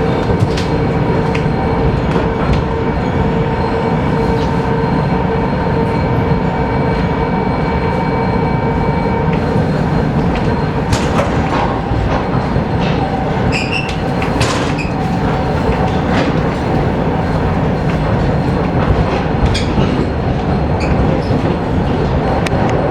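ER2K electric train in motion, heard from inside the passenger car: a steady rumble of the running gear with wheels clicking over rail joints. A steady humming tone fades out about nine seconds in, and a few brief high squeals come in the middle.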